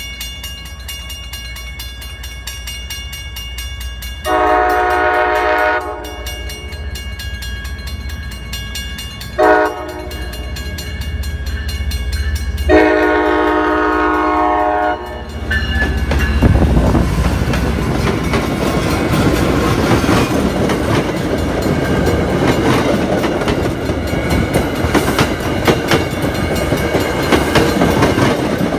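MBTA commuter train approaching a grade crossing, with the crossing bells ringing. Its diesel locomotive's horn sounds a long blast about four seconds in, a short one near ten seconds and another long one around thirteen seconds, the grade-crossing warning. From about sixteen seconds the HSP46 locomotive and its coaches pass close by, a loud rumble with wheels clacking over the rail joints.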